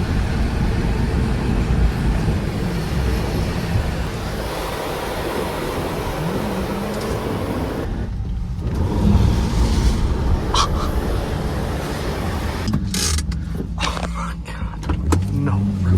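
Car running, with a steady low engine rumble under road or wind noise. A few sharp knocks come near the end.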